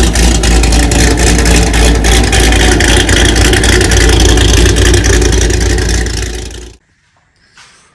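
Car engine running loud and steady, then cutting off quickly near the end.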